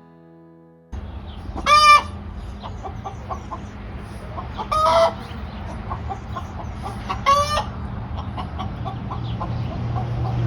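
Backyard chickens clucking, with three loud short squawks about two and a half seconds apart.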